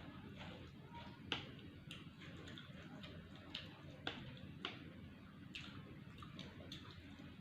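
Close-miked eating: irregular sharp clicks and crunches of chewing and mouth sounds, with the loudest about a second in.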